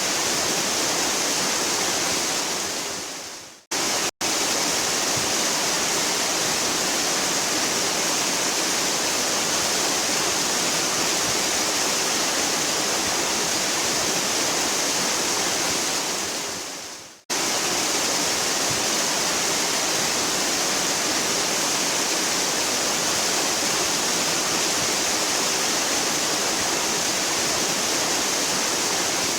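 Waterfall rushing steadily, a dense, even hiss of falling water. Twice, about 4 s and about 17 s in, it fades to silence over about a second and then cuts straight back in.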